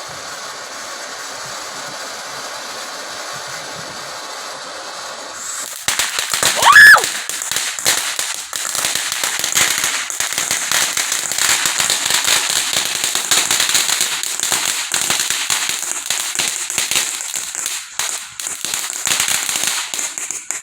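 Consumer firework going off: a steady hiss for the first several seconds, then about six seconds in a brief whistle and a loud bang, followed by dense rapid crackling and popping that thins out near the end.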